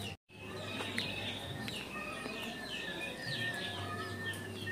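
Small birds chirping and twittering, many short quick calls over a thin steady whistle-like tone, after a brief silent gap just after the start.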